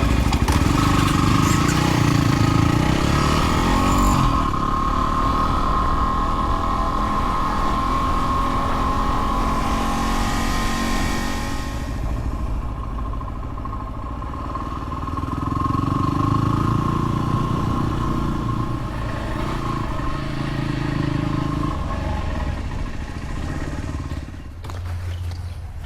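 Dirt-bike engine running under way, pulling hard at first, easing off about four seconds in, and picking up again past the middle.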